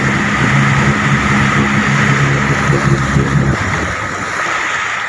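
A vehicle engine runs steadily while driving through deep floodwater, over a constant rush of water. About three and a half seconds in, the engine hum stops and the water noise slowly eases.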